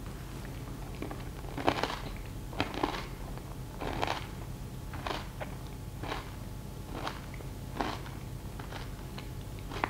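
A person chewing a mouthful of herring-and-butter snack, a short wet chewing sound about once a second.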